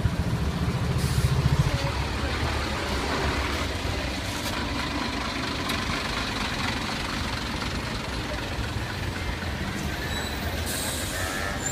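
Street traffic noise: a heavy vehicle's engine running close by for the first two seconds, then a steady wash of passing traffic.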